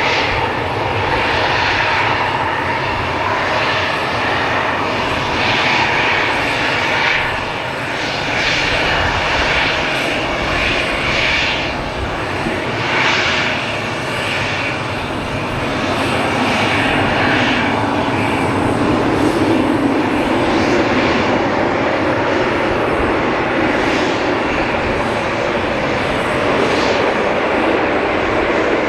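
Jet engines of an Embraer E190 airliner running as it comes in to land: a continuous engine noise that grows a little louder and deeper in the second half.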